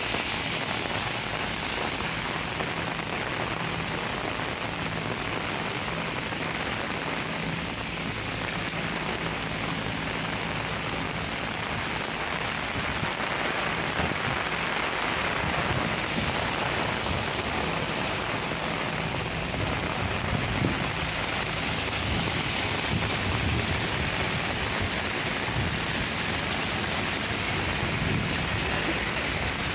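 Heavy rain pouring steadily onto a wet street and pavement.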